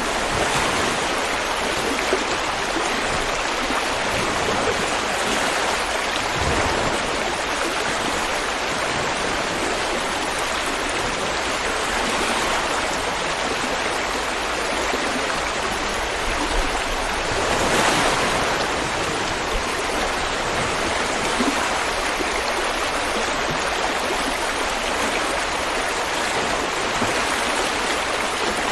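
River water flowing and rushing steadily over stones, a constant even rush with a brief swell about two-thirds of the way through.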